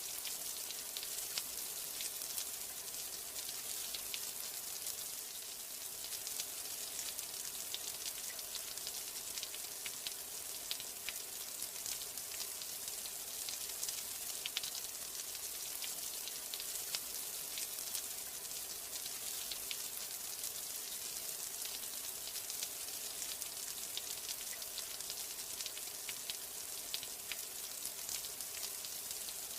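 Steady rain: an even hiss of falling water with many small drop ticks throughout, no change in intensity.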